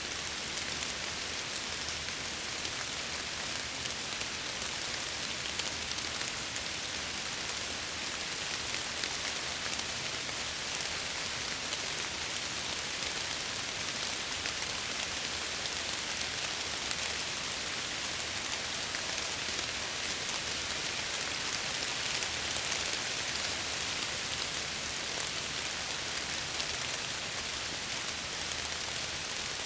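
Steady heavy rain pattering against window glass, a dense even hiss with many fine drop ticks.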